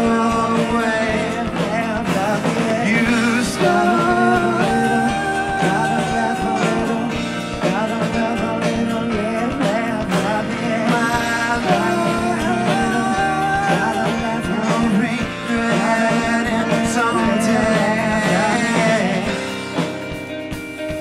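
Indie rock band playing live: a man sings over a Nord stage piano, electric guitar, bass guitar and drum kit.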